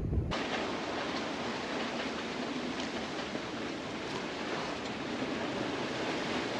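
Steady rushing hiss of waves and water moving past a small sailboat under sail. The low wind rumble drops away just after the start.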